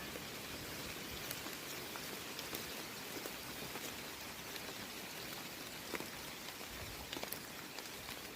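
Light rain: a steady hiss with scattered drops ticking at irregular moments.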